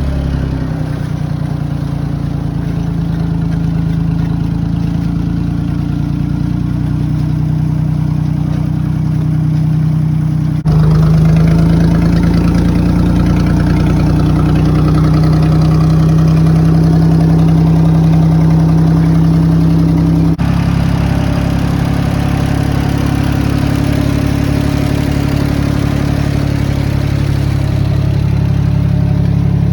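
Tractor engine running steadily at a constant speed, pulling a plastic mulch layer. Its hum shifts abruptly twice, about a third and two-thirds of the way through.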